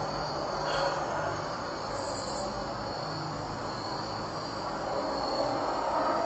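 A train passing, giving a steady rumble and rail noise, with insects chirping high and steady over it.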